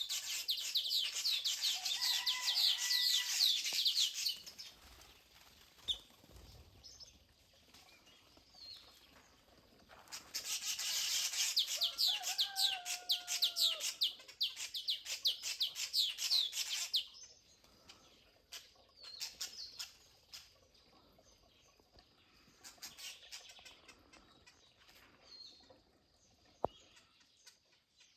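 Birds singing: two long bouts of fast, high-pitched chirping trills, one at the start and another from about ten to seventeen seconds in, each with a lower whistled call woven through, then sparser scattered chirps.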